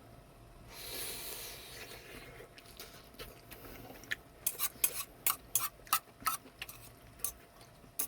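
A short rustling hiss about a second in, then an irregular run of light, sharp clicks and clinks, roughly two a second, from about halfway through.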